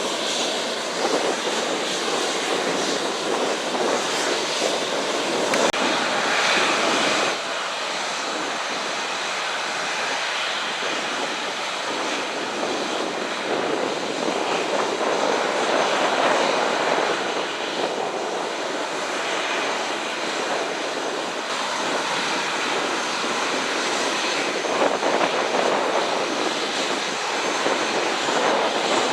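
Airbus A319's jet engines starting and running on the ground: a steady rushing noise with a faint high whine.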